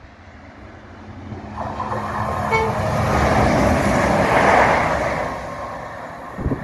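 CrossCountry Voyager diesel multiple unit passing through the station at speed: a rush of diesel engine and wheel noise that swells to a peak about four seconds in, then fades. A short horn note sounds about two and a half seconds in.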